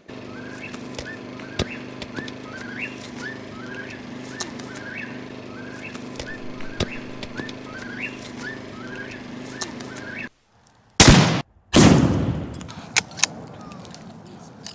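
A whip-poor-will singing its repeated call over and over, each phrase ending on a rising note, then a sudden stop. Then two loud blasts less than a second apart, a gunshot and a Tannerite explosion, the second trailing off longer.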